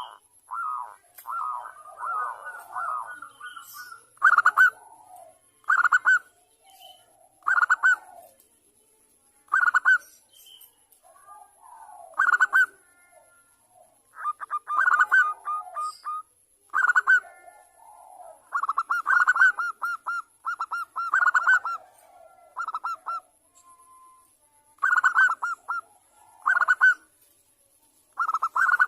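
Zebra dove (perkutut) cooing: short phrases of rapid staccato coos repeated every one and a half to two seconds, some phrases longer and rolling. The call is meant as a lure to draw other zebra doves into calling.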